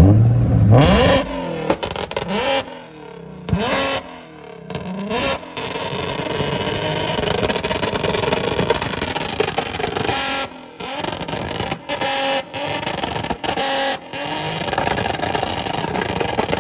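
Car engine revved hard: a few quick rising revs in the first few seconds, then a long run at high revs broken by several short drops.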